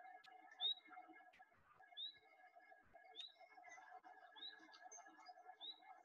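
Faint birdsong: a small bird repeats a short, high, upward-sweeping chirp about every second and a quarter, over a low background murmur.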